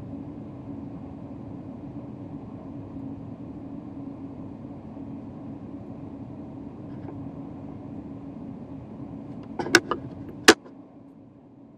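Steady rumble and hum of a high-speed train heard from inside the carriage. About ten seconds in come three sharp knocks in quick succession, after which the running noise drops off.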